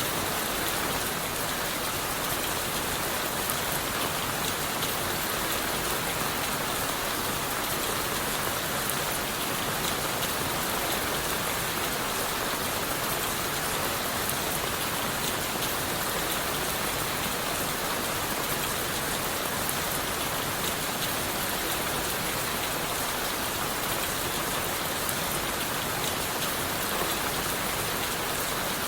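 Steady rain falling on leaves, wood and the forest floor: an even hiss with many fine drop patters throughout.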